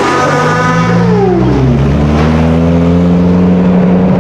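Sports car engine held at high revs, then the revs drop away steeply about a second in and settle into a low, steady drone.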